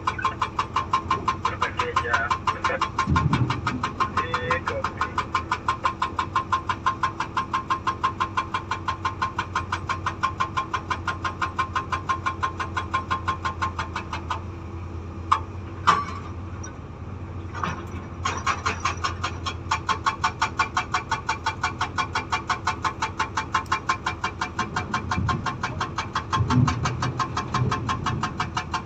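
SAGA 288H hydraulic breaker hammer on a Komatsu PC200 excavator pounding stone in rapid, even blows, about five or six a second, over the excavator's steady diesel hum. The hammering stops for a few seconds about halfway, broken by a couple of single loud knocks, then starts again.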